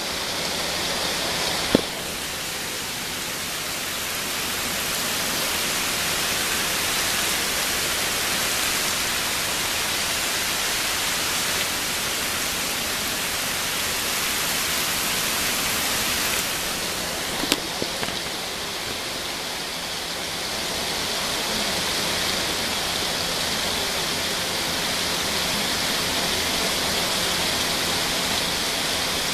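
Steady rain falling, an even hiss throughout, with a sharp click near the start and another a little past halfway.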